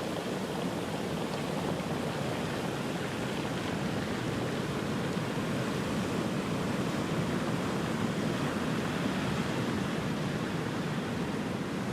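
Ocean surf: a steady rush of waves washing onto the shore, with no single wave breaking out above the rest.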